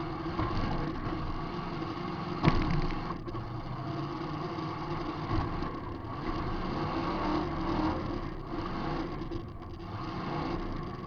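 Demolition derby car's engine running and revving, heard from inside the car, with one sharp bang of an impact about two and a half seconds in.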